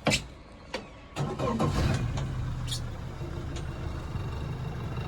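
Yamaha FR-20 boat engine starting: a sharp click, then about a second in the engine cranks, catches and settles into a steady idle.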